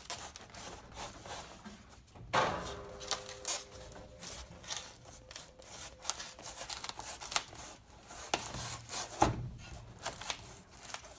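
Styrofoam insulation board being pressed by hand into a metal garage door panel: foam rubbing and crackling against the metal. There are louder scrapes about two seconds in and again near the end.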